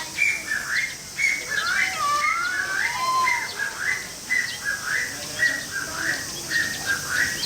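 A chorus of small animals giving short, high-pitched squealing calls over and over, about two a second, overlapping, with a few longer gliding calls about two to three seconds in.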